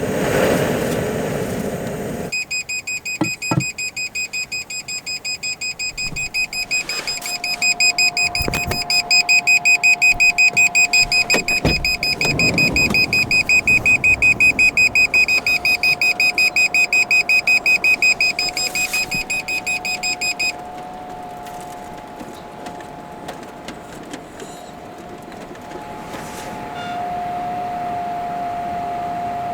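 Carbon monoxide alarm sounding in test: a rapid run of shrill electronic beeps that goes on for about eighteen seconds and then cuts off suddenly.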